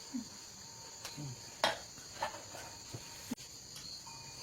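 Steady high-pitched insect chirring, with a few sharp light clicks scattered through it.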